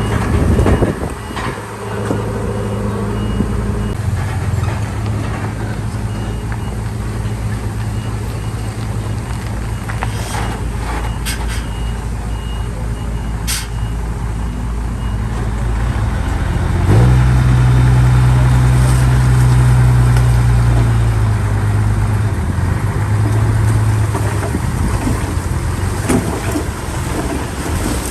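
Heavy diesel engine of earthmoving machinery running steadily, revving up under load a little past halfway and easing back a few seconds later. A reversing alarm beeps over the first half, and a few sharp knocks come near the middle.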